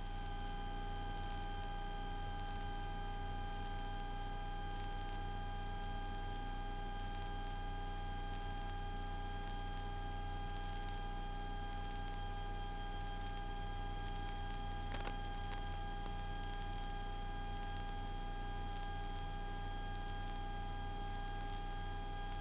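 Cessna 172S's four-cylinder Lycoming engine and propeller at full takeoff power, a steady low drone heard through the aircraft intercom, overlaid by a steady high-pitched electronic whine with fainter tones beneath it.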